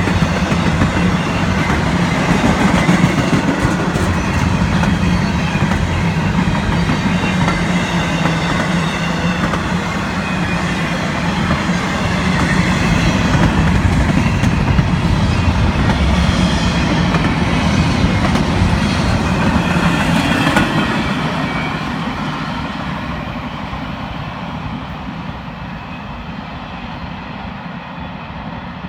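The freight cars of a CSX intermodal train rolling past, steel wheels running on the rails in a steady loud rumble. About two-thirds of the way through, the end of the train goes by and the sound fades away.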